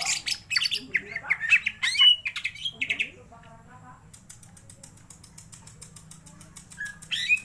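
Cucak ijo (green leafbird) singing: a dense run of chirps and sliding whistles for about three seconds, then softer rapid ticking calls, and a short loud burst of song near the end.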